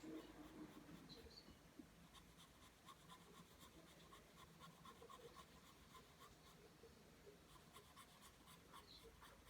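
Faint pencil strokes on paper: graphite lead scratching out line after line in a quick, repeated rhythm.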